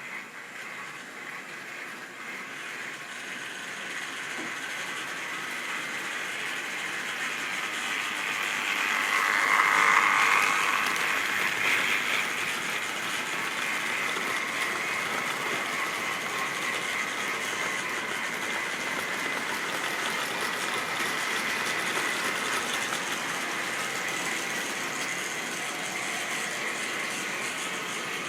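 Model train running on track: a steady high motor whine with the rattle of wheels on rail. It grows louder to a peak about ten seconds in as it passes close, then runs on steadily.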